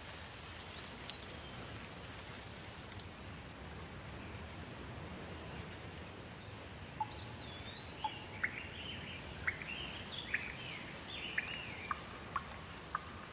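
Songbirds calling over a steady outdoor hiss: a faint call about a second in, then from about halfway a run of short whistled sweeps and sharp chirps, roughly two a second.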